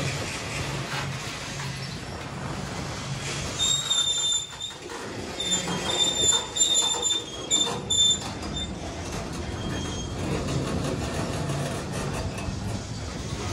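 A gravel train's freight cars rolling along the rails with a steady rumble. From about a third of the way in, a high-pitched wheel squeal comes and goes in several short bursts, then fades back to the rolling sound.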